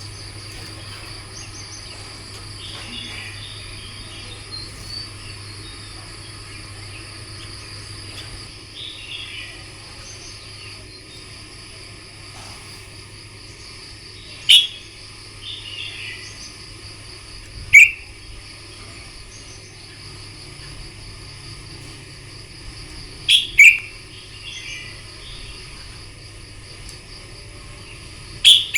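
Red-whiskered bulbuls singing: soft warbled phrases, then five short, loud, sharp calls in the second half, two of them in quick succession. A steady high-pitched whine runs underneath.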